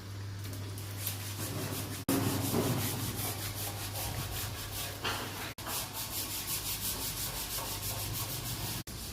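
Rice mill machinery running: a steady low hum under a fast, even rasping, interrupted by a few abrupt momentary breaks.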